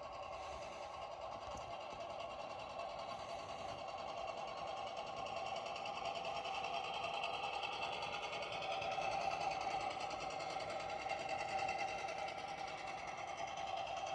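Small electric drive motor of a Horizon Hobby radio-controlled model tugboat running with a steady whine, growing somewhat louder around the middle.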